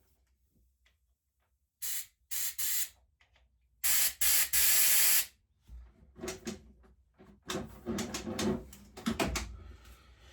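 Three short hissing spray blasts, the last and longest about a second and a half, clearing out a blocked lawnmower part, followed by clicks and scraping as small parts are handled.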